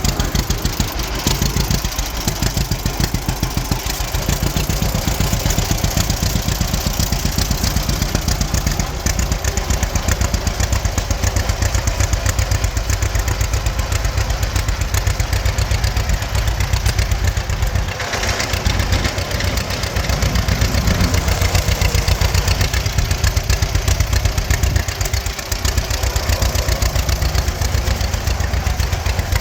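The engine of a 1937 Model B runs steadily with a fast, even firing pulse after its transmission rebuild. The sound turns brighter and noisier about eighteen seconds in.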